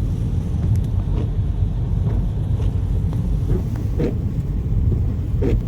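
Wind buffeting the microphone as a steady, loud low rumble. A couple of brief faint voice sounds come near the end.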